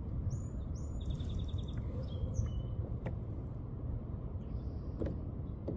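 Birds chirping: a few short high whistled notes, then a quick trill about a second in and more brief calls after, over a low steady rumble.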